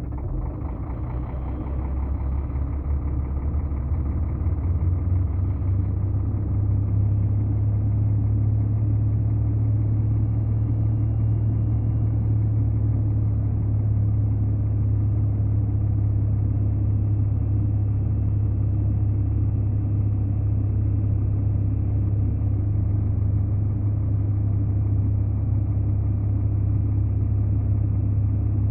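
A large vehicle engine running with a deep steady hum, building up over the first several seconds and then holding steady.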